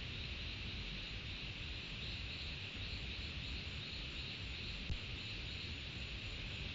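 Steady high-pitched chorus of tropical insects over a low, even rushing background, with one small click about five seconds in.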